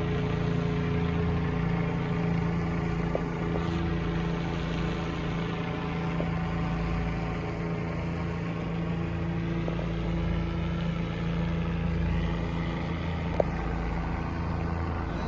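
Helicopter circling overhead: a steady, unbroken drone of rotor and engine.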